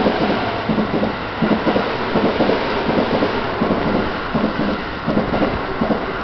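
Keikyu electric train running past the platform: a steady rumble of the cars with repeated clattering knocks from the wheels over the rail joints, easing off as the last car goes by near the end.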